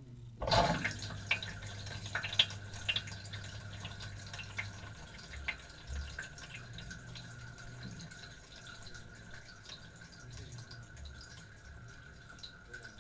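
Water spraying and splashing inside a dishwasher's tub, starting suddenly about half a second in, with scattered drips and knocks over a steady thin whine.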